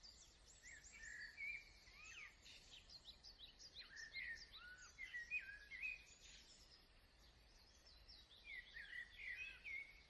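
Faint outdoor birdsong: several small birds chirping and calling, with many short overlapping whistled notes, some sliding in pitch.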